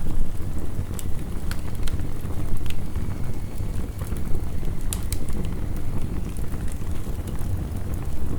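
Heavy rain as a steady low rush, overlaid with the irregular sharp crackles and pops of a wood fire.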